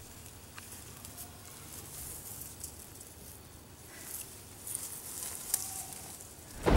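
Quiet outdoor night ambience with faint rustling and a few scattered small clicks and ticks, like a handheld camera being moved among dry leaves and underbrush.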